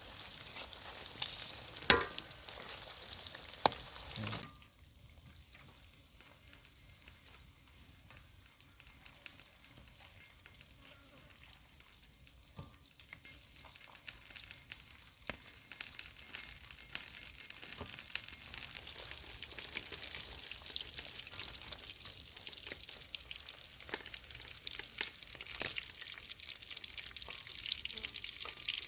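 Food frying in hot oil in a pan, sizzling and crackling. A few sharp knocks come in the first few seconds, then it drops quieter, and the crackle builds steadily denser from about halfway through.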